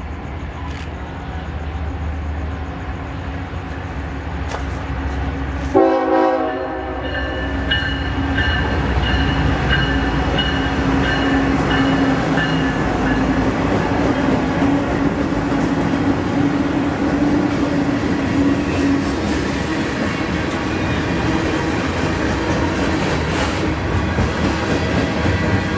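Freight train passing with diesel locomotives in the lead. The air horn starts suddenly about six seconds in and is held for several seconds over the engine rumble. Then comes the steady rolling clatter of tank cars going by.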